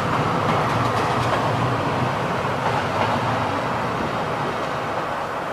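Passenger train coaches rolling past on the rails, a steady rumble of wheels and running gear that eases off slightly toward the end as the train moves away.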